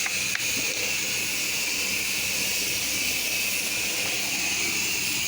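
Pressure-washing equipment running: a steady hiss with a faint low hum underneath.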